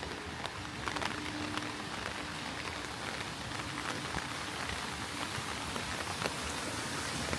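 Heavy rain falling, an even hiss dotted with many sharp drop ticks close by.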